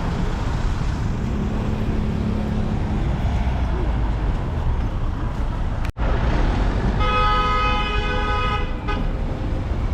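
Steady traffic rumble, with the sound cutting out for an instant near the middle; about seven seconds in, a vehicle horn sounds one held note for nearly two seconds.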